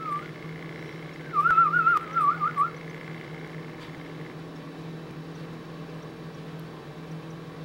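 A warbling whistle that wavers quickly up and down in pitch. It ends just after the start, then comes again about a second and a half in for just over a second. A steady low hum runs underneath.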